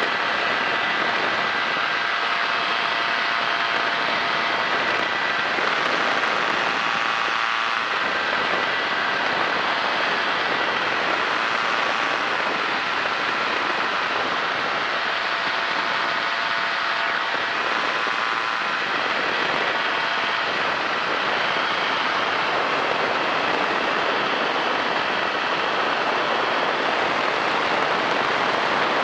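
Kolb Firefly ultralight airplane in cruise flight: the engine and propeller running at a steady, unchanging drone, mixed with the rush of air over an open cockpit.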